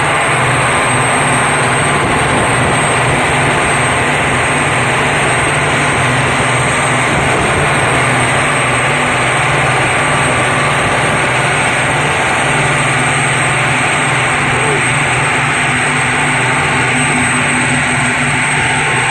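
MTU 16V2000 M91 sixteen-cylinder V marine diesel engine running loud and steady at constant speed, with a thin high-pitched whine over it.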